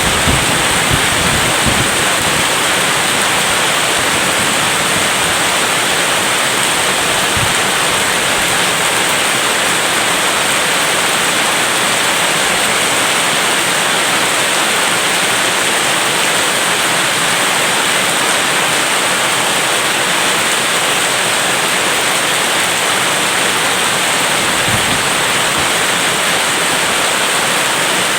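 Rain falling steadily, an even dense hiss, with a few brief low knocks near the start and again about 25 seconds in.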